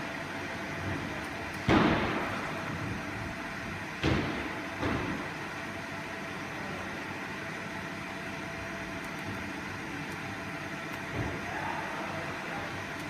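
Steady machine hum with a faint constant tone, broken by a few sharp knocks: a loud one about two seconds in, two more around four to five seconds, and a lighter one near the end.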